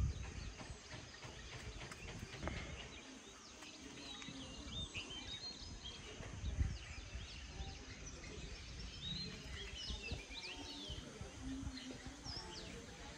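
Several birds chirping and calling in short, quick notes, busiest in the second half. Under them runs a low rumble on the microphone, loudest about six and a half seconds in.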